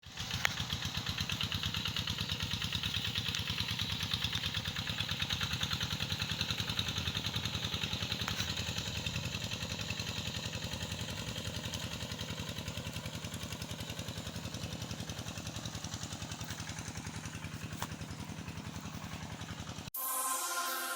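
A small engine running steadily with a rapid, even beat, which cuts off abruptly about a second before the end.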